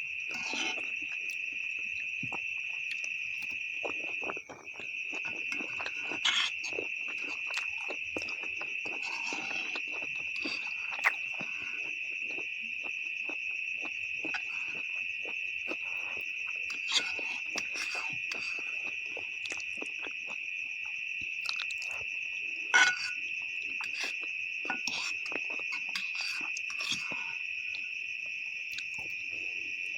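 Close-up eating sounds of instant noodles and beef: chewing, slurping and scattered sharp clicks and smacks, the loudest near the end. Under it runs a steady high-pitched insect trilling, which drops out briefly about four seconds in.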